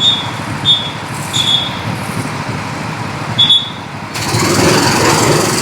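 Go-kart track start signal: a row of short, high, same-pitched beeps. About four seconds in, the karts pull away and a broad motor and track noise rises sharply and holds.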